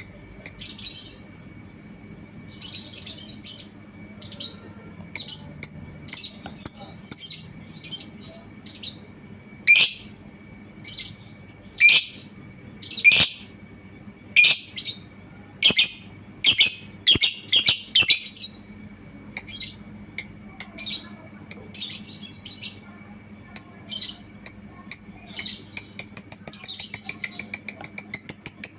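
Lovebird calling: sharp, high chirps at irregular intervals, then near the end a fast, evenly spaced chattering run, the long 'ngekek' call.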